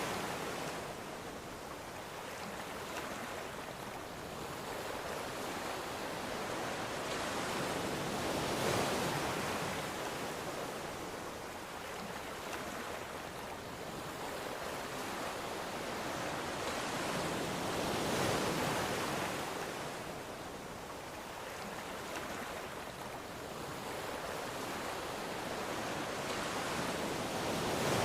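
Ocean waves washing onto a shore, a continuous surf noise that swells and eases with a breaker about every nine seconds.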